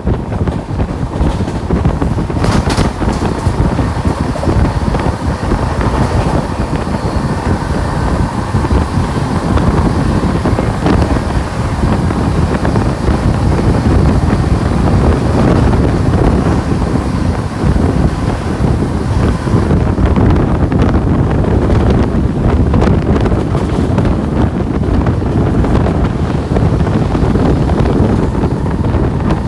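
Express train running at speed: steady rush of wind on the microphone over the rumble and clatter of the wheels on the rails, with a brief sharper knock about two and a half seconds in.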